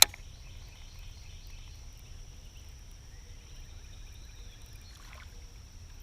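Outdoor ambience on the water: a steady low rumble and a steady high, thin buzz, with one sharp click right at the start.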